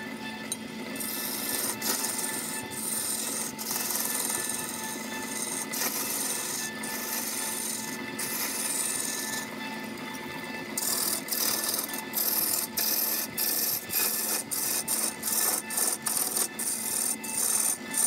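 Turning tool cutting into a spinning wooden vase blank on a wood lathe: a hissing scrape of shavings over a steady hum. From about eleven seconds in, the cut comes in short repeated strokes, about two a second, as the tool is pressed in and eased off.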